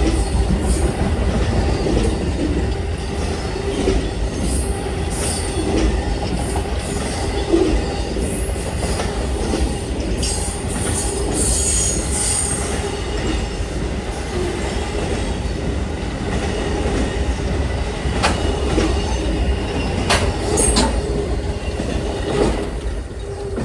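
Amtrak Auto Train's cars rolling past: a steady rumble of steel wheels on rail with a faint wheel squeal and a few sharp clicks late on. The sound begins to fade near the end.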